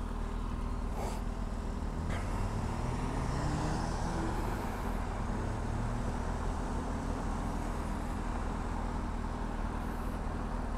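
Kawasaki Ninja motorcycle engine running on the road, with traffic and wind noise around it; its pitch rises from about three seconds in as it speeds up, then holds steady.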